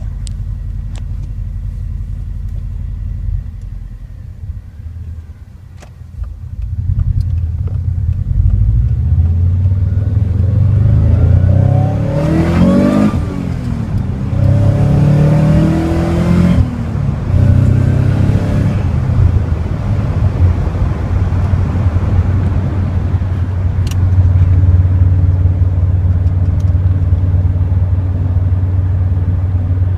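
Car engine running through a newly fitted exhaust: a low steady drone that dips briefly, then grows louder, with a few revs rising and falling in pitch near the middle, before settling into a steady deep drone.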